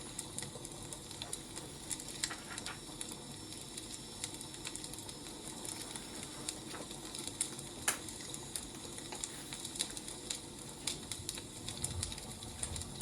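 Burning firewood crackling: irregular sharp snaps and pops, one louder about eight seconds in, over a low steady rustle of the fire.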